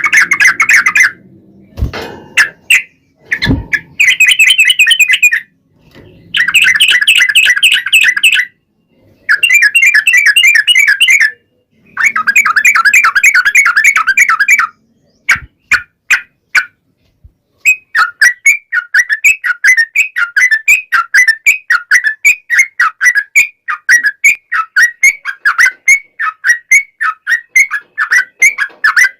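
Yellow-vented bulbul (trucukan) singing: bursts of fast chattering trills a couple of seconds each with short gaps, then, from about two-thirds through, a long unbroken run of repeated notes, about three a second. Two brief low thumps come early on.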